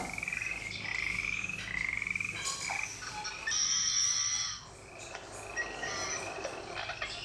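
Frogs calling in a chorus: repeated pulsed trills overlapping one another, with a higher buzzing call for about a second midway.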